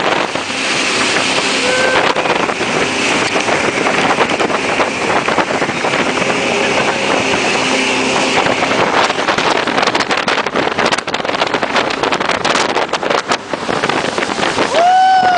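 Jet boat running at speed on a river, its engine and rushing water mixed with wind buffeting the microphone, crackling for a few seconds past the middle. About a second before the end a short, high-pitched cry rises and falls.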